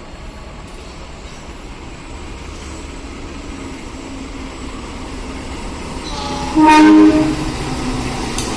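Diesel-electric locomotive-hauled passenger train drawing into the station, its rumble building, then one short, loud horn blast about six and a half seconds in. A sharp click follows near the end.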